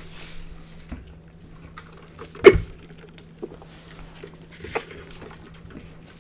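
Close-miked eating and food-handling sounds: faint chewing and small clicks and rustles, with one sharp, loud knock or crack about two and a half seconds in and a smaller one near five seconds.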